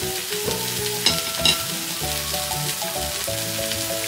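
Atsuage (thick fried tofu) and enoki mushrooms sizzling steadily on an electric hot plate, with light background music over it. Two short clicks come a little after a second in.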